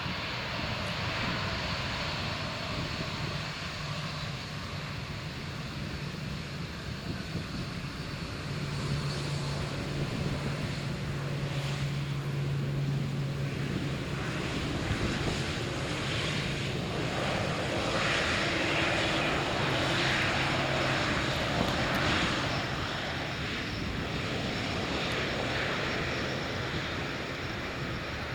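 Jet engines of a Boeing 787-10 airliner, a continuous rush of engine noise with a steady low hum for several seconds. The noise swells for a few seconds in the second half, then eases slightly.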